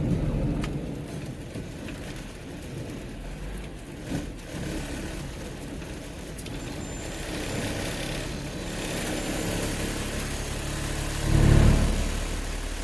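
Car driving on a snowy road: steady engine and tyre noise heard from inside the car, with a brief louder surge near the end.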